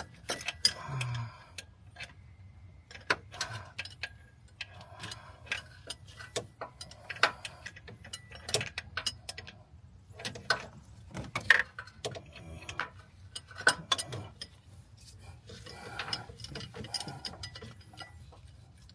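Hand tools working on an engine: irregular sharp metallic clicks and clinks, with short spells of ratcheting and scraping in between.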